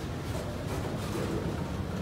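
Loaded freight cars carrying steel coils rolling past, with the steady rumble of steel wheels on the rails.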